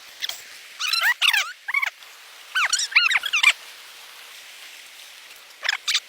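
High, squeaky animal calls in three quick bursts of arching chirps: one about a second in, one around three seconds in, and a short one near the end.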